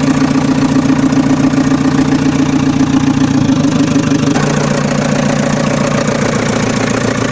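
Tractor engine idling with a steady, fast chugging knock; its tone shifts slightly about three and a half seconds in and again about a second later.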